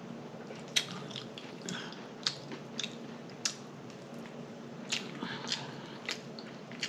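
Close-up chewing of food with wet, irregular mouth clicks and lip smacking, about a dozen sharp smacks over several seconds.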